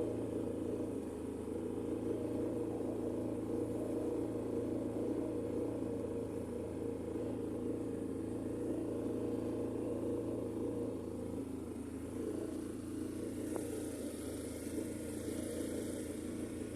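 A small sailboat's engine running steadily at an even speed while the boat motors along.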